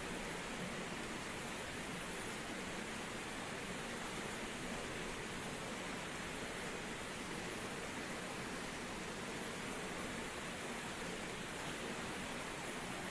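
Steady rush of flowing water inside a cave, an even hiss with no breaks.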